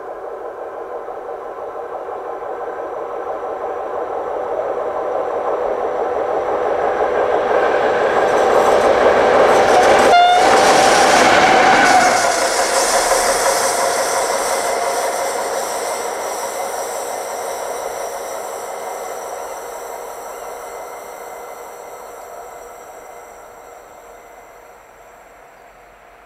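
Freight train passing on the rails. Wheel and rail noise swells for about ten seconds, peaks with a short horn blast, then fades slowly as the train moves away.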